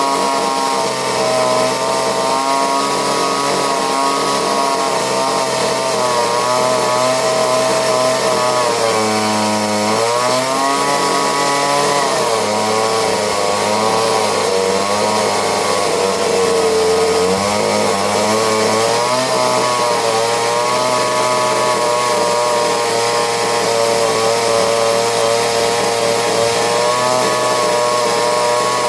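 McCulloch two-stroke chainsaw running at high speed and cutting wood, its engine pitch dipping under load and recovering several times.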